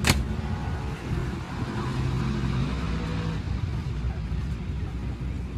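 A motor vehicle's engine running with a steady low rumble, after a sharp click right at the start.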